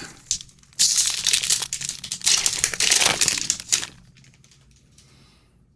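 Wrapper of a trading card pack being torn open and crinkled in the hands, a loud crackling that runs from about a second in until about four seconds in, then stops.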